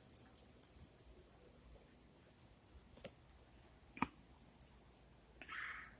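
Faint, scattered small clicks and ticks, the sharpest about four seconds in, then a brief rustling hiss about five and a half seconds in.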